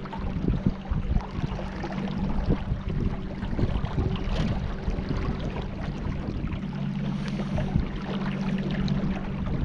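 Water splashing and lapping against a small boat on the river, with irregular crackles and gusts of wind noise. A steady low motor hum drops out twice and is strongest in the second half.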